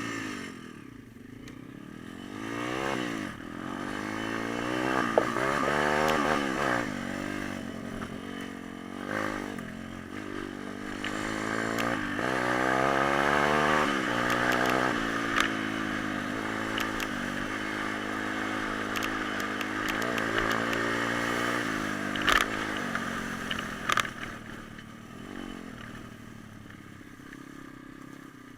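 Small-capacity pit bike engine revving, its pitch climbing and dropping in several sweeps, then running more steadily before fading away near the end. A couple of sharp clacks come about 22 and 24 seconds in.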